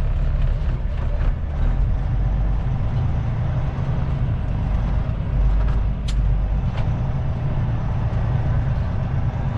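Steady engine and road noise inside the cab of a Kenworth T660 semi truck under way, with a few short sharp clicks.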